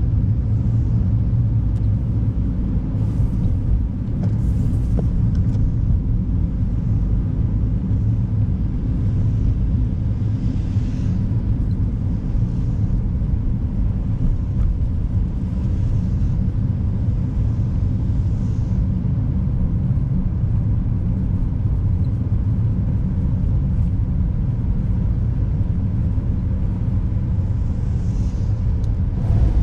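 A car driving on an icy, snow-covered road, heard from inside: a steady low rumble of engine and tyre noise. A few brief soft hisses come and go over it.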